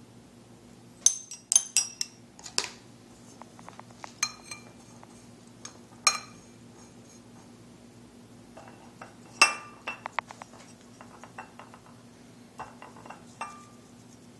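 Scattered light clinks of small ceramic painting dishes being handled, a dozen or so sharp taps with a brief ringing. They come in clusters, the loudest about a second in and about nine seconds in. A faint steady electrical hum runs underneath.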